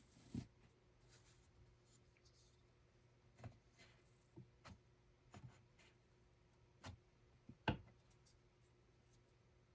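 Near silence in a small room, broken by scattered soft clicks and taps at irregular intervals, the sharpest a little before the end.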